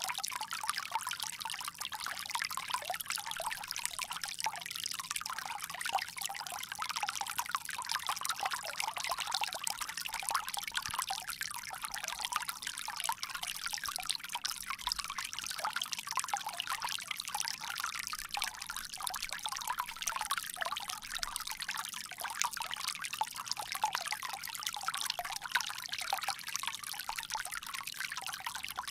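Water pouring steadily from a bamboo spout, a continuous splashing trickle with no bass to it.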